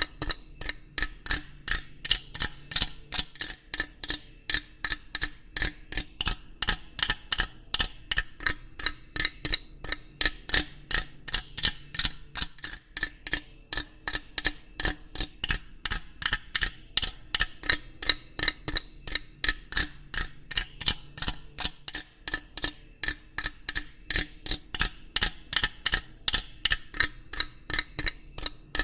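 Steady, regular mechanical ticking, about three clicks a second, over a faint low hum.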